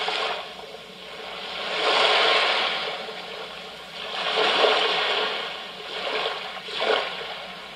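Ocean-waves track playing from a SZTROKIA white noise sleep machine's small speaker: a surf hiss that swells and fades four times, about every two to two and a half seconds.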